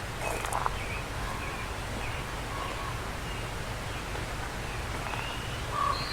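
Wild birds calling in short, scattered chirps over a steady low outdoor background.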